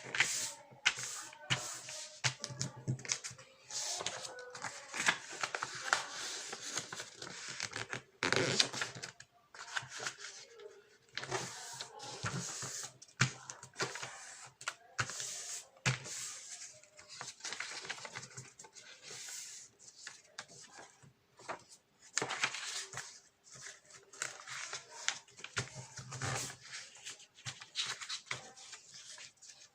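A sheet of paper being handled, folded and creased, with irregular rustling and crinkling and sharp little clicks of the creases.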